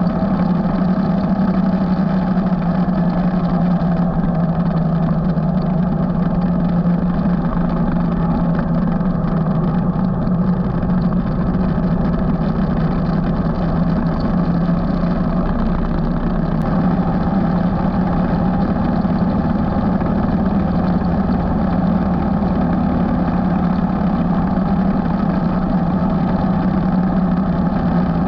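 Motorcycle engine running at a steady cruising speed while riding, its pitch holding nearly constant, with a haze of wind and road noise over it.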